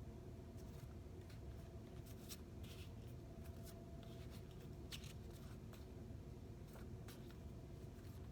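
Quiet room tone: a steady low hum with a few faint scattered clicks and rustles.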